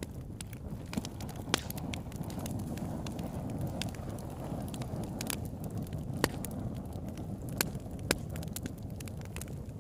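Campfire burning: a steady low rumble with scattered crackles of burning wood and four sharp louder pops.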